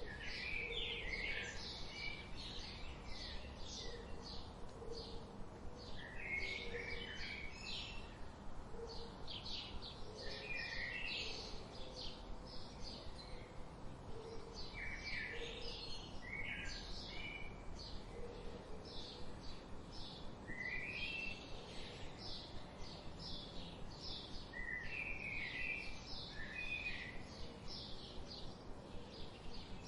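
Several wild songbirds chirping and singing in quick, busy phrases of high notes, over a steady background hiss, with faint low notes now and then.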